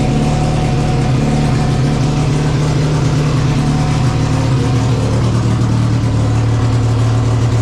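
1963 MGB race car's four-cylinder engine running at a steady fast idle through its headers while warming up from a cold start; the idle speed drops a little about halfway through.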